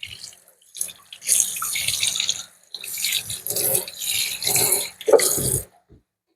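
Water running from a sink tap and splashing, in uneven spells as something is rinsed under it, then cutting off suddenly about five and a half seconds in.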